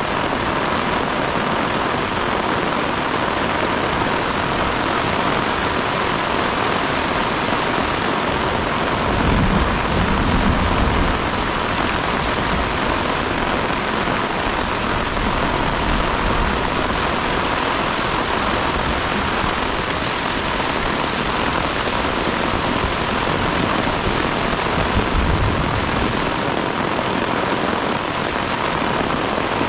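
Heavy rain falling in a steady loud hiss, with two stretches of deeper low rumble, one about a third of the way in and another near the end.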